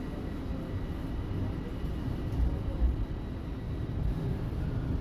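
Toronto subway train running between stations, heard from inside the car: a steady low rumble of wheels and motors with a faint high whine.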